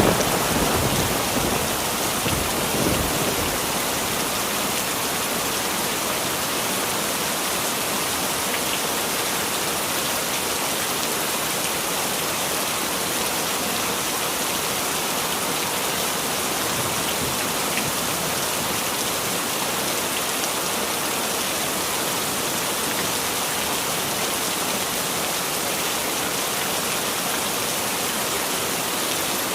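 Heavy rain falling steadily. A low thunder rumble, the tail of a clap that peaks just before, fades out within the first few seconds.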